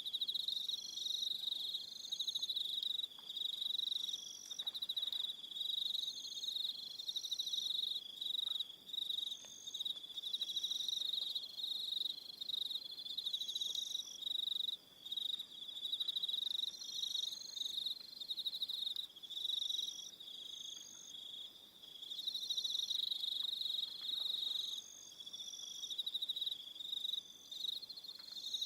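Crickets chirping in a dense, steady high trill, with shorter repeated calls pulsing above it.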